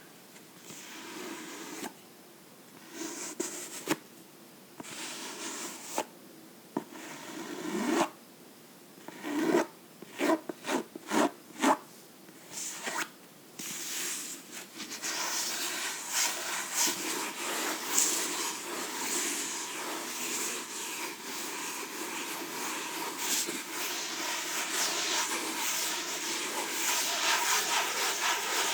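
A book handled up close: short scattered strokes and a quick run of taps on it, then steady scratching on the book from about halfway.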